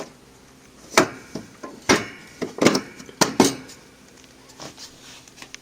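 Wire bird cage being snapped and locked onto its stand base: a string of sharp metallic clanks and clicks, bunched between about one and three and a half seconds in, some ringing briefly.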